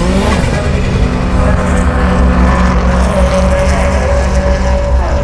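Subaru Impreza Type RA's turbocharged flat-four engine dropping off revs as the car slows to a stop, then running steadily at low revs.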